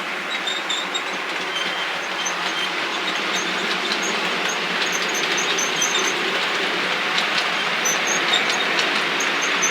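OO-scale model locomotive running along the track: a steady whirr of motor and wheels on rail, with light irregular ticking, growing slightly louder.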